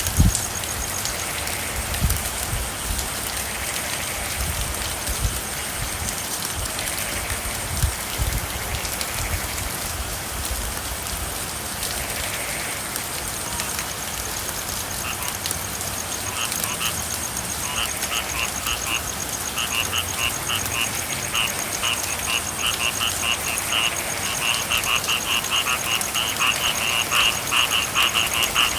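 Steady rain with frogs calling in fast pulsed trills that begin about halfway through and grow denser and louder toward the end. A few low thuds in the first several seconds, and a faint high buzz.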